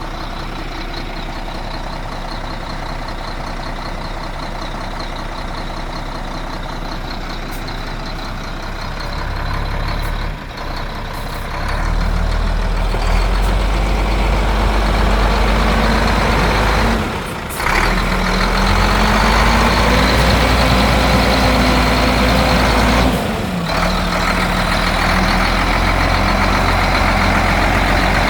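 Sinotruk NX tractor truck's 430-horsepower Weichai diesel engine running steadily, then growing louder about ten seconds in as the truck is driven off and picks up speed. Its note rises and shifts, with two short drops in level along the way.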